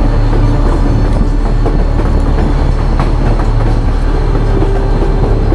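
Narrow-gauge White Pass & Yukon Route passenger train running along the track, heard from an open car platform: a steady rumble and clatter of wheels on rails.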